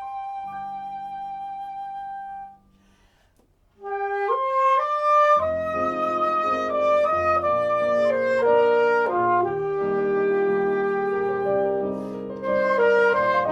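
Flute and alto saxophone playing a slow melody in duet over a recorded accompaniment. A held note ends about two and a half seconds in, followed by a short pause. The wind instruments then re-enter, and a fuller accompaniment with low sustained notes joins a couple of seconds later.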